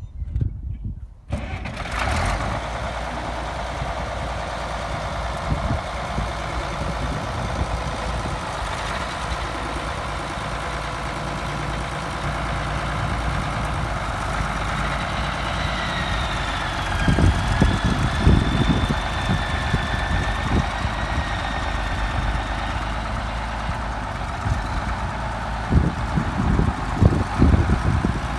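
Case 970 tractor engine comes in abruptly about a second in and runs steadily, with louder low rumbles about two-thirds of the way through and again near the end.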